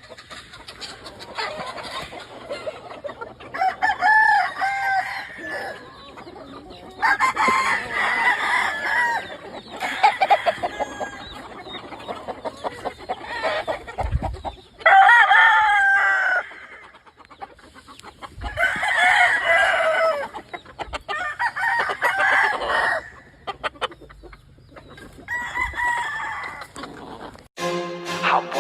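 Gamefowl roosters crowing again and again, about eight crows spread over the stretch, with clucking between them.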